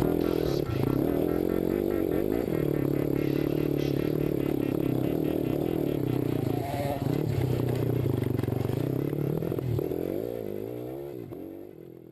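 Motocross bike engine running with shifts in revs, together with music, the whole fading out over the last couple of seconds.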